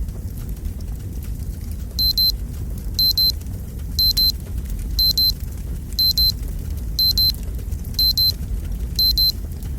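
Fireplace logs burning with a low rumble and scattered crackles. From about two seconds in, a high-pitched digital alarm beeps over the fire: a quick double beep once a second, marking the end of the countdown timer.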